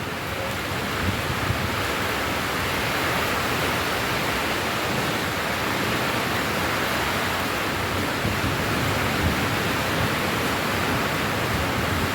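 Steady, even rain sound.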